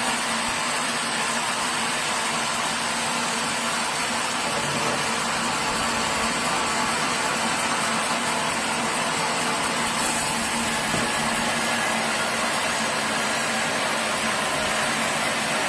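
Sawmill machinery running steadily: an even, unbroken noise with a faint steady hum.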